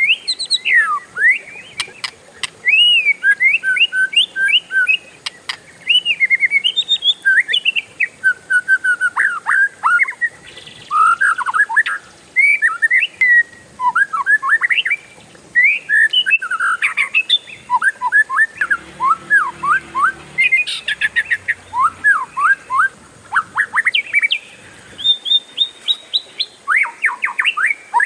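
Oriental magpie-robin (kacer) singing a long, loud, continuous song of varied sliding whistles and quick trills, with only brief breaks.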